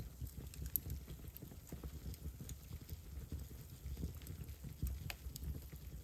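Fire burning in a fireplace, crackling with irregular small pops and snaps over a low, steady rumble of flames.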